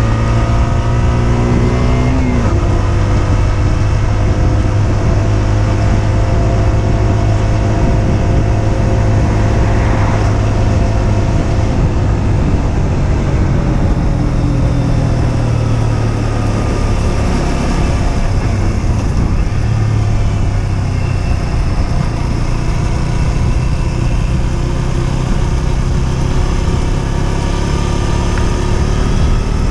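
Husqvarna Svartpilen 125's single-cylinder engine under way. It revs up and drops sharply in pitch at a gear change about two seconds in, then pulls steadily as engine speed slowly falls and rises again, with wind noise on the microphone.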